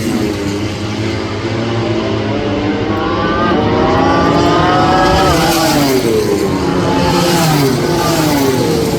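Racing motorcycle engines at high revs, the pitch climbing for several seconds, dropping about five and a half seconds in, then climbing again as the bikes accelerate through the gears.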